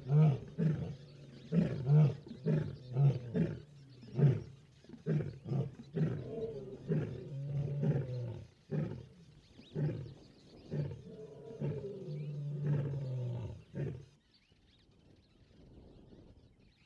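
Lions roaring in a chorus bout, a long run of deep roars and short grunts one after another, answering distant roars. The bout stops about 14 seconds in.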